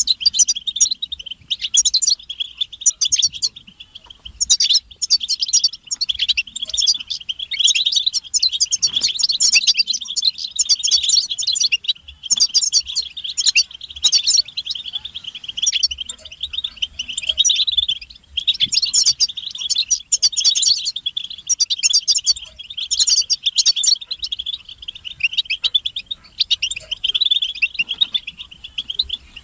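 Several European goldfinches twittering and singing together without a break: a dense, fast, tinkling chatter of high notes.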